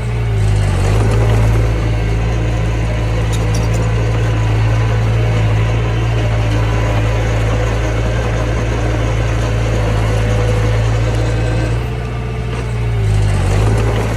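Mini bulldozer's diesel engine running steadily while it works soil, its pitch and level dipping briefly about half a second in and again near the end.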